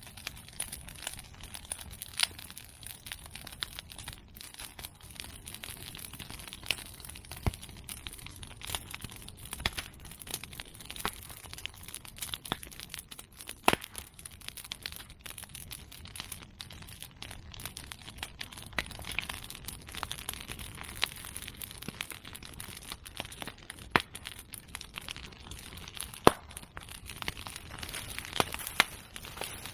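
Bonfire of medake bamboo and chestnut prunings crackling steadily, with sharp pops every few seconds as bamboo stems burst in the heat; the loudest pop comes near the end.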